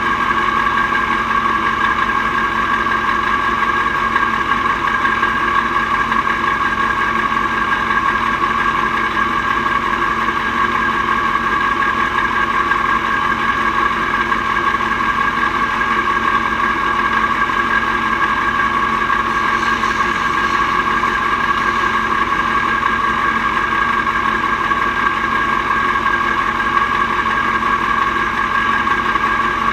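Mack R-series V8 truck engine running at a steady, unchanging speed, with a steady high whine over the engine note.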